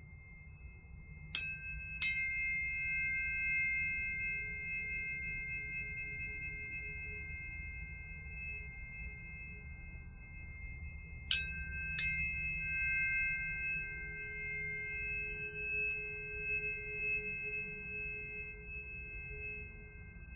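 Planetary tuning forks struck twice in quick succession, then twice again about ten seconds later. Each strike gives a bright metallic clang that fades fast into sustained, overlapping high ringing tones.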